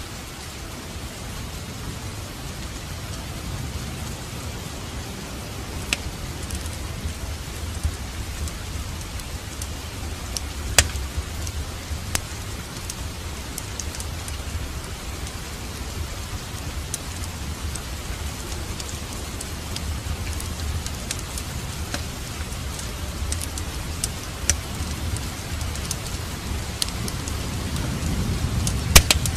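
Steady rain with a low rumble underneath, dotted with a few sharp crackles and pops from a wood fire in a fireplace. The rumble swells near the end, like distant thunder.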